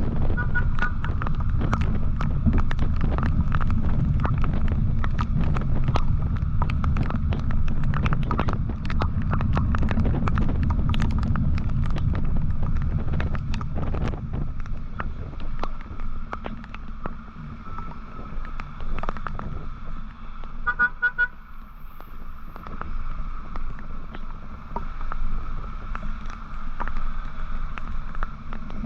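Wind rumble on the microphone of a moving motorcycle in traffic, heavy at first and easing about fifteen seconds in as the bike slows. Short vehicle horn toots sound near the start and again about two-thirds of the way through.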